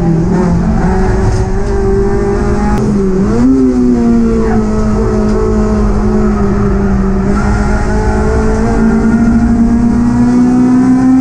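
Honda Civic Type R EP3 race car's four-cylinder engine at high revs, heard from inside the cabin. The pitch dips and jumps back up about three seconds in, then climbs steadily over the last few seconds before dropping at the very end, as at a gear change.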